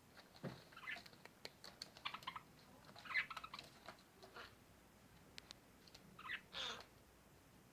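Faint, scattered short chirps and small clicks from small caged parrots (budgerigars and a green-cheeked conure), with a slightly longer scratchy call near the end.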